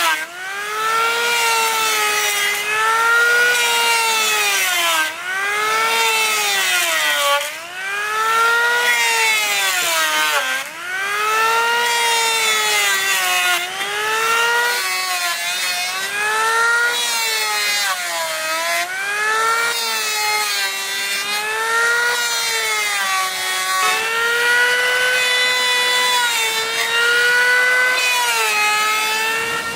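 Power tool working wood, its motor whining with a pitch that dips and recovers again and again, about every two seconds, as it bites into the wood in repeated passes.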